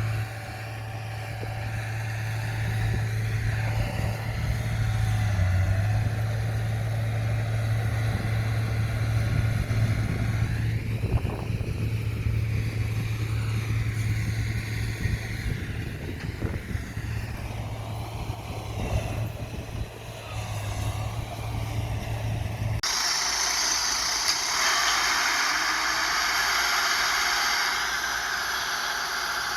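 Diesel engine of heavy earthmoving machinery running with a steady low drone that rises and falls as it works. About three-quarters of the way through, the sound cuts suddenly to a steady hiss.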